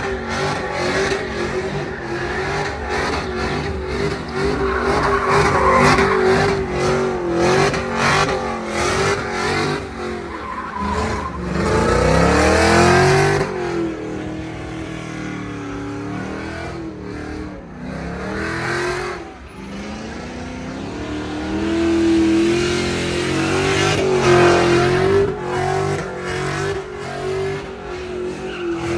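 Pickup truck doing a burnout: the engine is held at high revs with its pitch wavering, dropping and climbing again about a third of the way in and again about two-thirds in, over the hiss and squeal of spinning tires.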